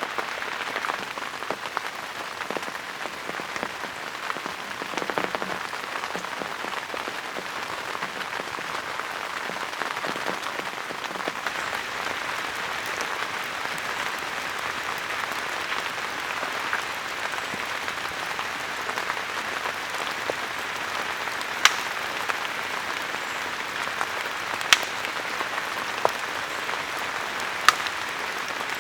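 Steady rain falling as a dense patter, with a few sharper, louder drops striking in the last third.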